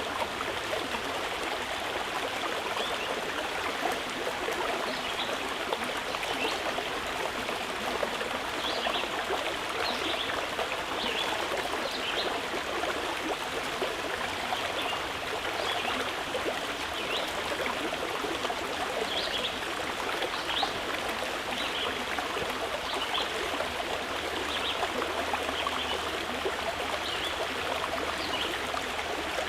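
Flowing stream: a steady rush of water, with brief high-pitched sounds dotted through it.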